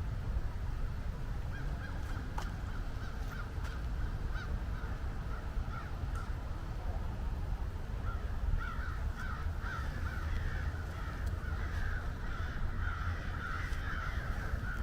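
A flock of birds calling, many short overlapping calls that grow busier and denser in the second half, over a steady low rumble.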